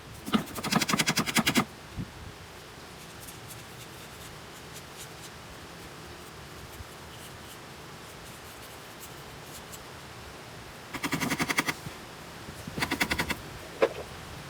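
Three short bursts of a fast mechanical rattle: one lasting about a second right at the start, then two briefer bursts near the end.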